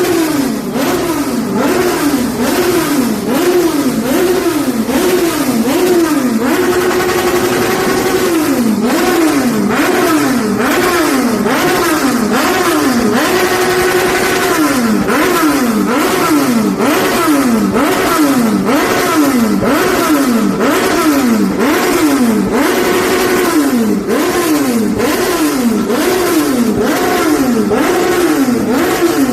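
Car engine revved hard over and over, its pitch climbing and dropping a little more than once a second, held at high revs for a second or so twice. Loud.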